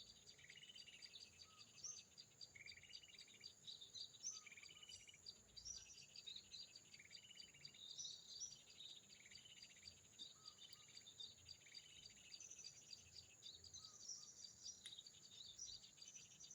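Faint small-bird chirping, short high phrases repeating about once a second, over a steady high insect buzz.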